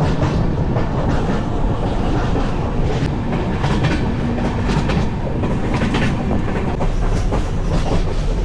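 Indian Railways express passenger train running along the track, heard from on board: a steady rumble of the coach with the wheels clicking over rail joints.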